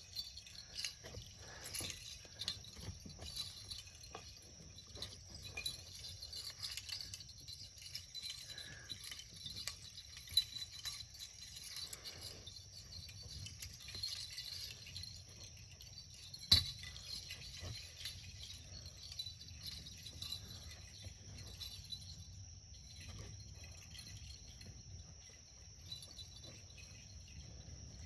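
Crickets chirping in a steady high chorus, with scattered light jingling and rattling clicks and one sharp knock about sixteen seconds in.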